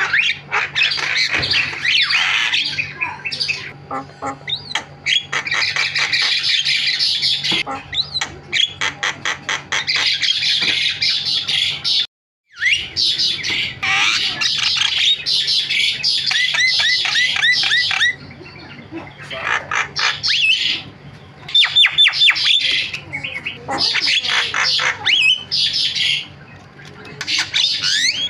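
Javan myna (jalak kebo) chattering almost without pause: harsh squawks mixed with rapid clicking trills and whistled notes, cutting out briefly about twelve seconds in.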